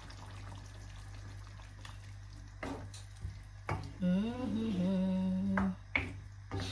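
Coconut milk pouring and splashing into a pot of simmering curry, with a couple of knocks against the pot. About four seconds in, a person's voice holds one long, wavering note for nearly two seconds, the loudest sound here.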